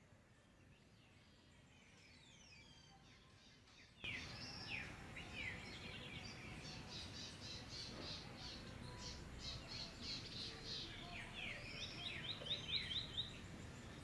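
Several wild birds calling together: quick sweeping whistles and rapid series of chirps. The calls are faint at first and much louder from about four seconds in.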